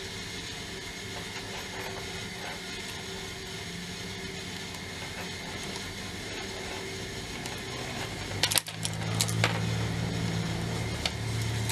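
A tape measure being handled and worked, giving a few light metallic clicks about eight and a half seconds in, over a steady low hum. The tape is stiff, in need of oil.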